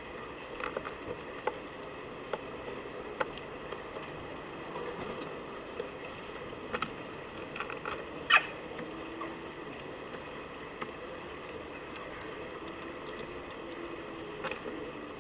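Irregular light clicks and taps from animals feeding at a garden feeder, with one sharper knock about eight seconds in, over a steady faint hiss.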